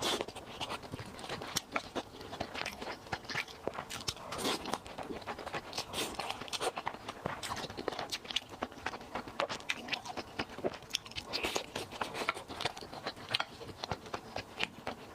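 Close-miked eating: a person biting and chewing crunchy food, with a dense run of irregular sharp crackles and crunches.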